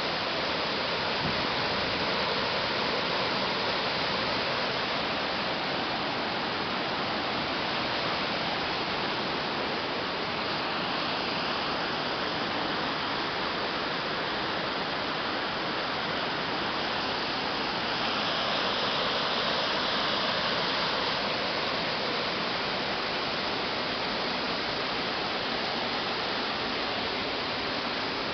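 Small waterfall rushing: an even, unbroken noise of falling water.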